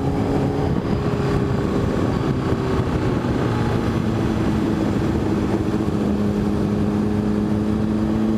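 Motorcycle engine running at a steady cruise, its pitch easing down slightly over the first few seconds and then holding, over continuous wind and road noise.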